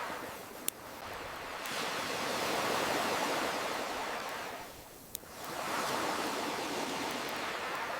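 Ocean waves washing in and ebbing away in slow swells, with two sharp pops from a crackling wood fire, one under a second in and one about five seconds in.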